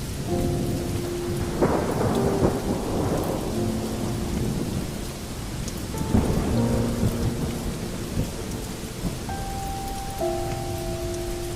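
Steady heavy rain with rolls of thunder, the loudest swelling up about one and a half seconds in and again around six seconds in. Soft sustained tones drift in and out underneath.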